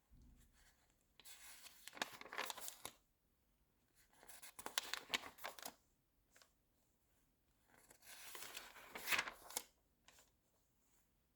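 Magazine pages being turned, three times, each a soft swish and crinkle of glossy paper lasting a second or two.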